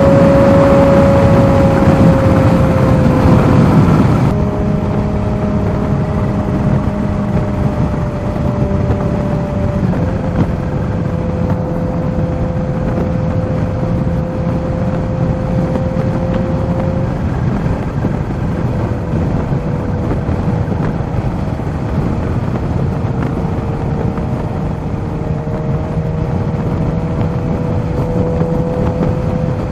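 Kawasaki Z H2's supercharged inline-four running under way, over wind rush. It is loudest for the first four seconds, and its pitch shifts in steps about 4 and 10 seconds in, then holds steady.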